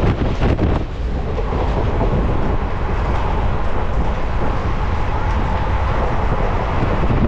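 Passenger train running, heard from an open coach doorway: a steady rumble of wheels on the track, with wind buffeting the microphone in the first second and again near the end, and a faint steady whine in the middle.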